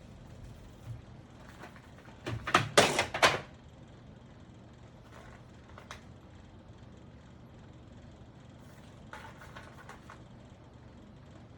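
Adhesive tape being pulled off a roll: several quick, loud rasping pulls about two seconds in, with fainter handling noises near the end.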